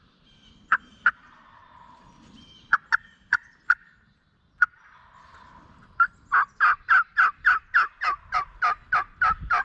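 Turkey yelping: a few scattered single yelps, then from about six seconds in a fast, even run of about sixteen loud yelps.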